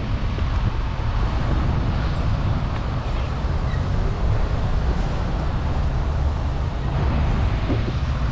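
Steady low rumble of wind buffeting the microphone of a moving bicycle rider, mixed with road and traffic noise.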